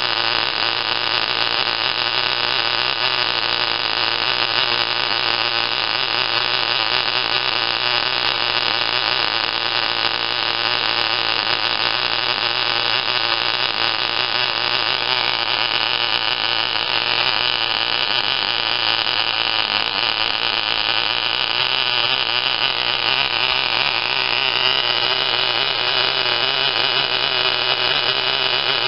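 Tiny model glow-fuel engine running steadily at high speed with a buzzing whine; its pitch rises slightly about twenty-five seconds in.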